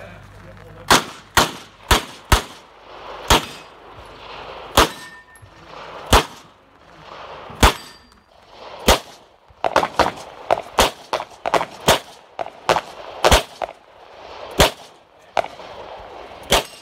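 9mm handgun shots on a competition range. They come as a string of single shots at an uneven pace, then a fast run of shots in the middle, then a few more single shots.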